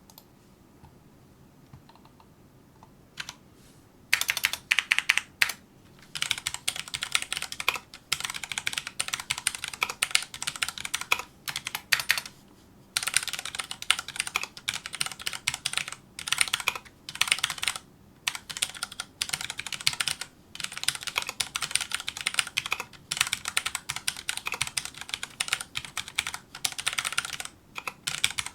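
Fast typing on a Filco Majestouch2 mechanical keyboard with Cherry MX Brown switches: rapid runs of key clacks broken by short pauses. The typing starts about four seconds in, after a quiet stretch with a few single key taps.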